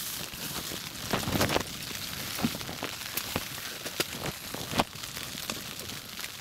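Rain pattering on an ice-fishing tent's fabric: a steady hiss with many irregular sharp taps, and a brief louder rustle about a second in.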